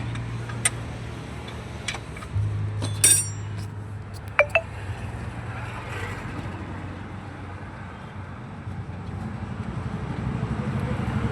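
Sharp metallic clinks and one ringing strike about halfway in, as tools and bolts knock against the exhaust parts. A steady low engine hum runs underneath, and a rougher engine sound builds near the end.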